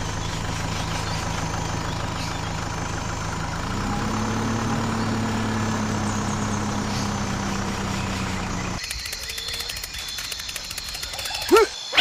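Engine-like motor running steadily, its pitch stepping up a little about four seconds in. It cuts off abruptly about nine seconds in, giving way to rapid high clicking, and a short sliding call sounds near the end.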